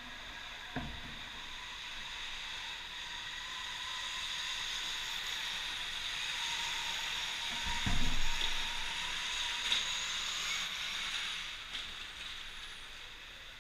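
Electric dirt bike running, a steady high motor whine over a hiss of tyres and dirt, with two low thuds, one about a second in and another about eight seconds in, that swell slightly and then fade near the end.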